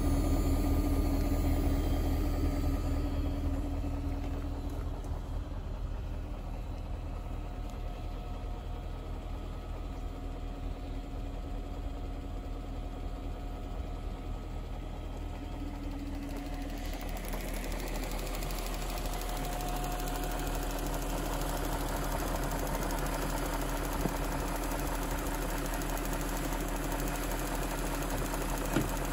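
BMW 740i E38's 4.4-litre V8 idling steadily while warming up after a cold winter start.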